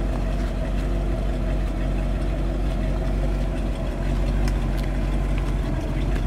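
1956 Cadillac Series 75 Fleetwood's V8 engine idling steadily, heard at the exhaust outlets.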